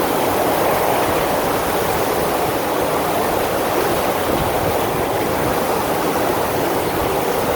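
Steady rush of water from a FlowRider surf machine, with pumped water sheeting continuously over the wave surface.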